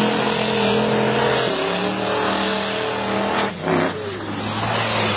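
A truck engine held at high revs during a burnout, over a steady hiss of spinning tyres. The engine pitch steps and wavers, drops briefly about three and a half seconds in, then climbs again.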